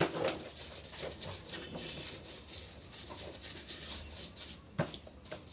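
Light clicks and taps of small tools and metal parts being handled while a pressure-washer pump is taken apart, with one sharper click near the end. Faint high chirps sound behind.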